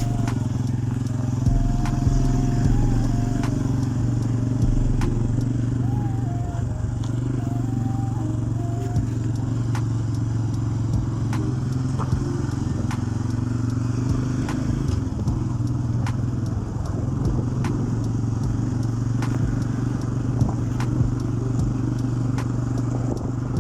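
Italika TC-250's single-cylinder engine running at a steady speed while the motorcycle is ridden, with a constant low drone and light clicks and ticks over it.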